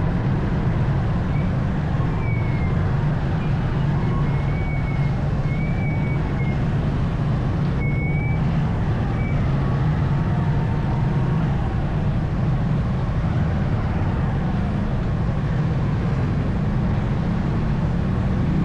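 Suzuki motorcycle engine running at low speed amid heavy road traffic, a steady low drone with other vehicles around. Several short high-pitched tones sound in the first half.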